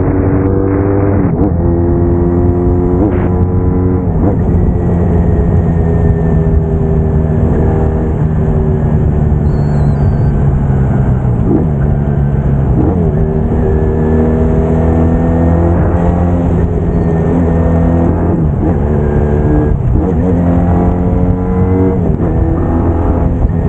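Braaap Moto4 motorcycle engine running under way, rising in pitch as it accelerates and dropping back at each gear change, several times over.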